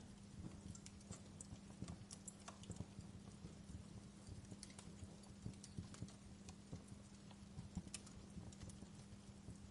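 Wood fire in a fireplace crackling, with many irregular sharp pops and snaps over a steady low hum.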